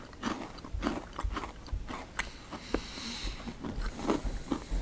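Close-up crunching and chewing of small, hard garlic bagel chips (Tottis garlic bread chips), with irregular crisp crunches as the chips are bitten and chewed.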